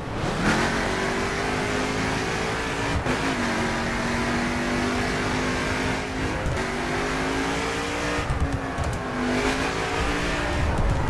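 Mercedes-Benz C63 AMG V8 accelerating hard: the engine note climbs, then drops back at each gear change, several times in a row.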